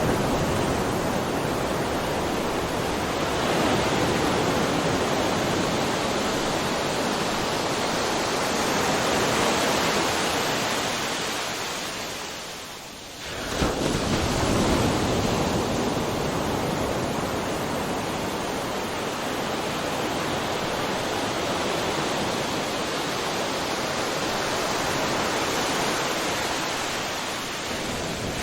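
Ocean surf breaking and washing in a continuous roar of noise that swells and eases. About halfway through it falls away briefly, then comes back suddenly.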